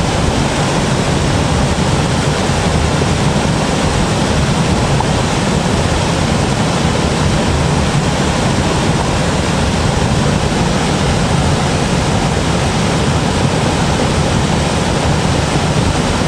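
Steady, loud rush of running water, an even noise that does not change.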